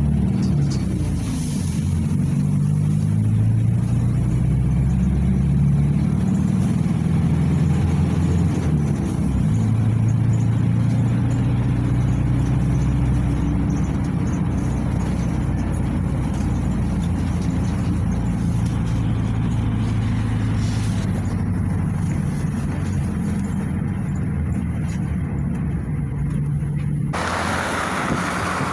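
PAZ 320402-05 bus's diesel engine running under way, its pitch rising and falling as it speeds up and slows. Near the end a hiss joins in.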